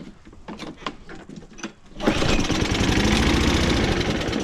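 A Toro Recycler push mower's small engine. After a few light clicks and knocks it starts suddenly about two seconds in and runs steadily with a fast, even firing pulse.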